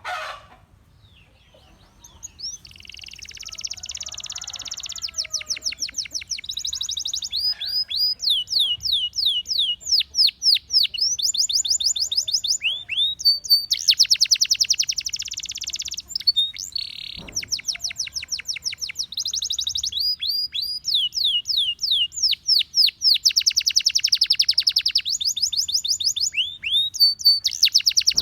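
Gloster canary singing a long song after a short quiet start. The song alternates fast trills of repeated falling whistled notes with rapid buzzy rolls, broken by brief pauses.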